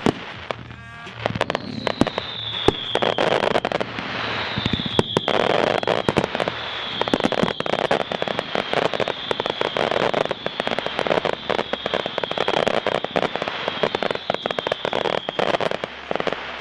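Consumer fireworks finale firing continuously: dense crackling and many sharp reports, with a high whistle that falls in pitch and repeats about every second and a half.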